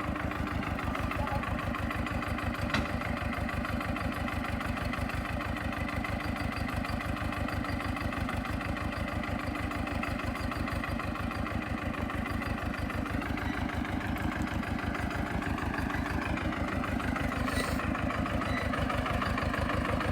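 Swaraj 724 tractor's two-cylinder diesel engine idling with an even, steady beat that grows slightly louder near the end.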